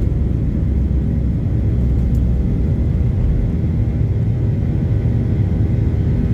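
Steady low rumble of a Boeing 737-900ER's CFM56 engines and airflow, heard from inside the passenger cabin.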